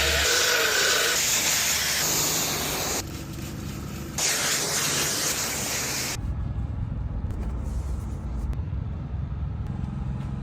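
A loud pressurised spray hissing in two spells, with a short letup about three seconds in. It stops about six seconds in, leaving a low steady rumble.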